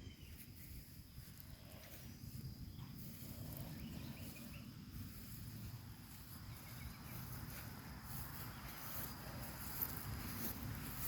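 Faint outdoor ambience: insects chirping steadily, over a low rumble.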